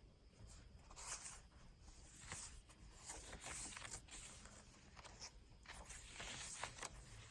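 Faint, irregular rustling and brushing of paper as the pages and paper inserts of a handmade journal are handled and turned.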